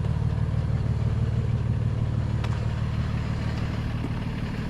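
Freightliner tow truck's diesel engine idling with a steady low rumble, a faint tick partway through.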